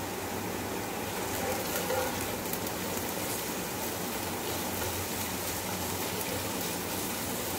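Chopped onions with garlic and ginger paste sizzling in hot oil in a pot, a steady crackling sizzle of frying.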